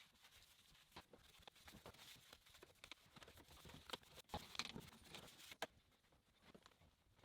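Faint, scattered clicks and brief scrapes from light handling work, with a few sharper ticks a little past the middle.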